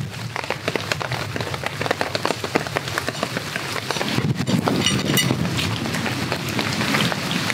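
Steady rain falling on the forest canopy and leaf-strewn ground, with many individual drops. About halfway through, rustling and footsteps of a walker in a rain poncho join in.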